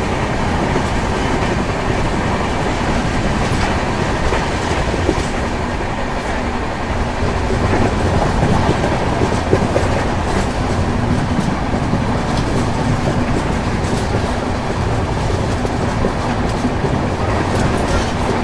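Express passenger train running at speed, heard from an open coach doorway: a steady rush of wheel and track noise with scattered clicks as the wheels pass rail joints.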